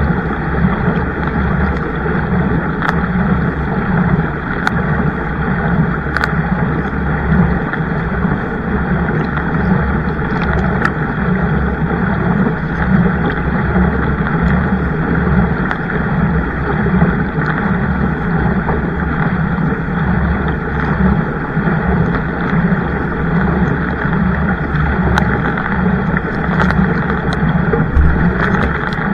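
Steady rushing noise of water and air around a kayak under way, with a few light clicks.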